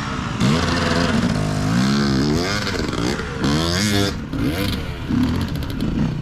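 Dirt bike engine revving up and down again and again, its pitch rising and falling with each throttle blip as the bike works through a muddy section.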